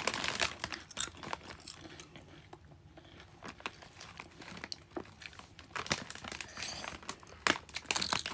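Plastic crisp packet crinkling and rustling as hands reach in and take crisps out, in irregular short crackles that are busiest at the start and again near the end.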